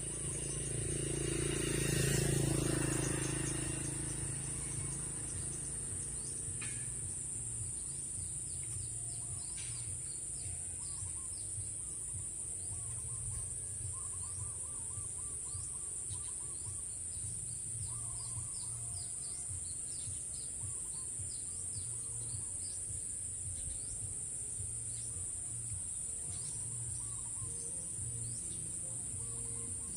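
Outdoor rural ambience: a steady high-pitched insect drone, like crickets, runs throughout, with many short bird chirps and some lower warbling calls over it. A louder sound swells and fades in the first few seconds.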